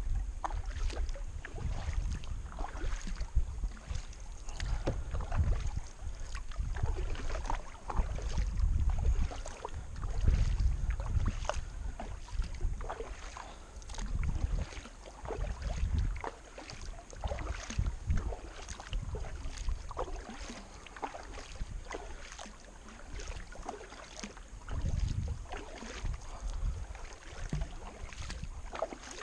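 Kayak paddle strokes, the blades dipping and splashing in the water with many small splashes and clicks, while wind buffets the microphone in repeated gusts of low rumble.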